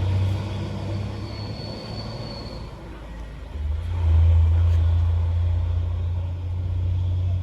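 Diesel truck engine running with a low, steady drone that grows louder about three and a half seconds in. A thin high whistle sounds briefly about a second in.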